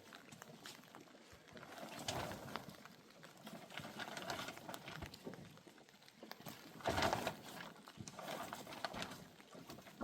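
Livestock calling several times, each call lasting about a second, the loudest about seven seconds in.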